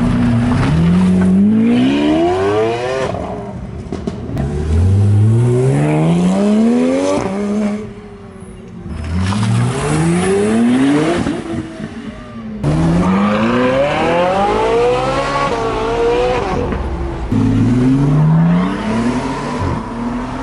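Pagani Huayra's twin-turbo V12 accelerating hard away through the gears, its note climbing steeply and dropping back at each upshift, three pulls in a row. After a sudden cut about two-thirds of the way through, another car's engine accelerates hard through two more gears.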